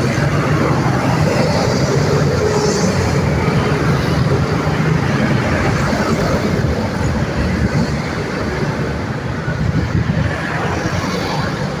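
Busy road traffic: a dense, continuous mix of vehicle engines and tyres with a steady low engine drone, easing slightly in the second half.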